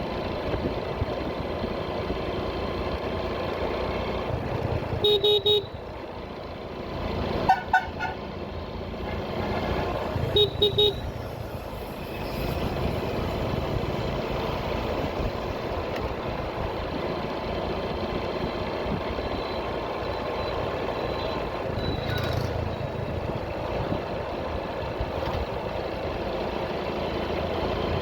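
Motorcycle riding in traffic: steady engine and road noise, with vehicle horns honking about 5 s in, two short beeps near 7.5 s and a quick run of beeps about 10.5 s in.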